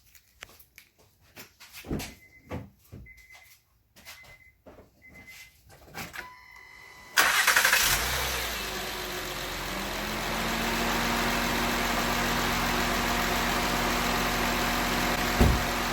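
A few clicks and short electronic beeps, then the 2010 Honda Crosstour's engine cranks and starts about seven seconds in and settles into a steady idle, running on a newly fitted alternator. There is a single knock near the end.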